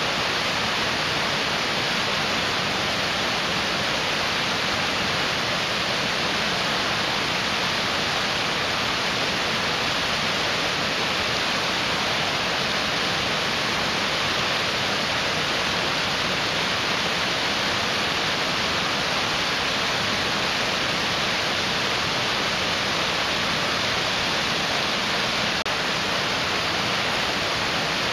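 Mountain stream rushing over rocks: a steady, unbroken wash of water noise.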